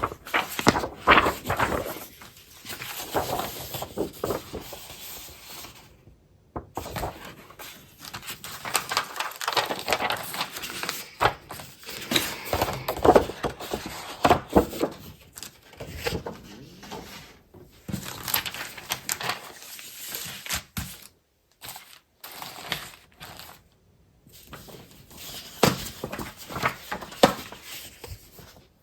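Paper and packaging of scrapbooking supplies rustling, crinkling and shuffling as they are handled and sorted, with many small taps and clicks. The sound drops out to silence a few times, about six seconds in and again around three-quarters of the way through.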